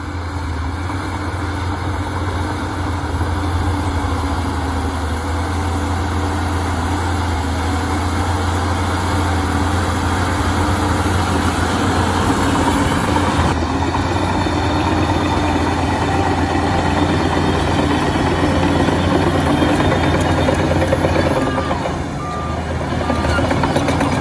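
Shantui bulldozer's diesel engine running steadily with a heavy low drone. A reversing alarm beeps a few times near the end.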